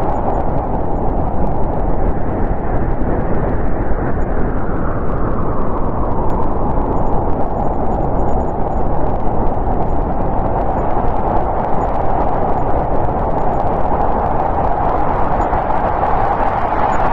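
Snowstorm wind blowing steadily, with gusts that swell and ease over several seconds.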